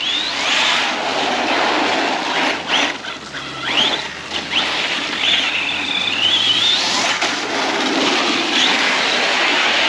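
Arrma Big Rock 6S RC truck driving on wet pavement: its brushless motor gives a high whine that rises and falls with the throttle, with several quick upward glides on bursts of speed, over a steady hiss of tyres through water.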